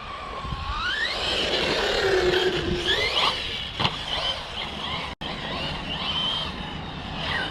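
Electric RC car's motor whining, its pitch rising and falling with the throttle as it drives and jumps, over tyre and surface noise.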